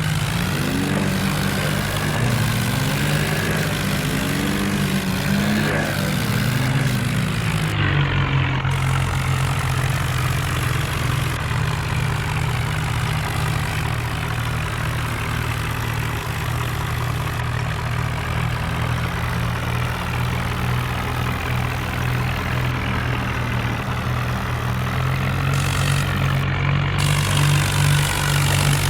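Diesel tractor engines running, their pitch rising and falling for about the first eight seconds, then settling into a steady drone.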